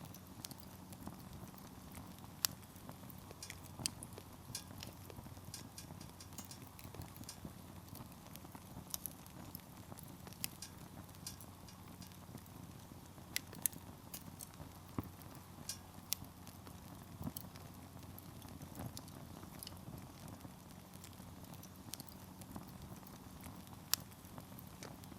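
Campfire of burning firewood crackling, with irregular sharp pops and snaps over a low steady rumble of the flames.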